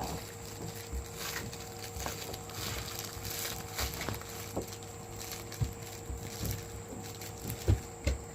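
German shepherd puppies scuffling at play: scattered paw patter and soft thumps, with a few short squeaks. The loudest thump comes near the end.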